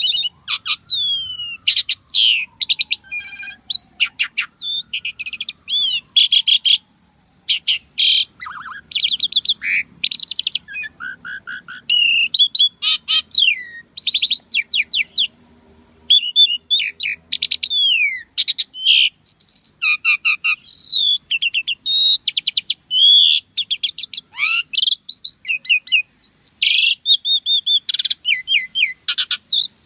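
Asian pied starling (jalak suren) singing a long, varied song without pause: quick whistles, squeaky rising and falling notes and rattling chatter.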